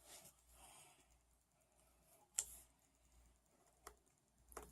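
Near silence with a few faint, sharp clicks: one about two and a half seconds in, and fainter ones near four seconds and just before the end.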